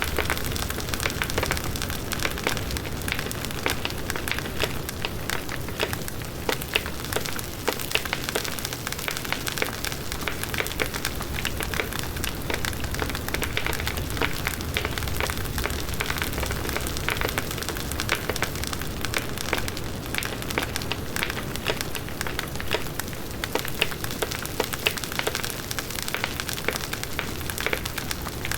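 Large wood bonfire burning: steady dense crackling and popping of the burning wood over the low rush of the flames.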